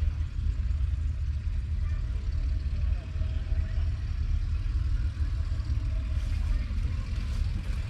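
International Harvester 1055's 5.9-litre six-cylinder diesel engine running steadily, a low, even rumble.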